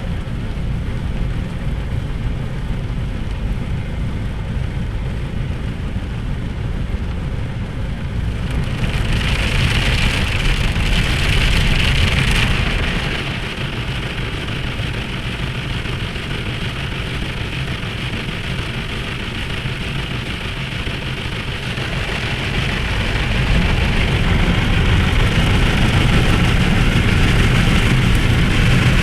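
Automatic car wash machinery working over the car, heard from inside the cabin: a steady low rumble under a hiss like water spray on the body. The hiss grows louder about a third of the way in and again for the last quarter.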